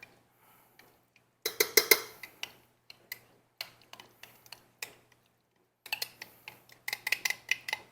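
A utensil scraping and tapping against a measuring cup as canned pumpkin purée is emptied into a mixing bowl: two bursts of quick clicks and knocks with scattered single taps between.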